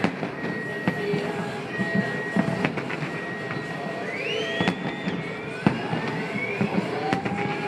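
New Year fireworks display going off in a string of bangs and pops, with rising whistling tones about four seconds in, over music playing in the background.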